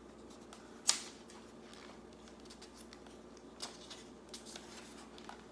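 Book pages being handled and turned, soft paper rustles with one sharp click about a second in and a few faint ticks after, over a low steady room hum.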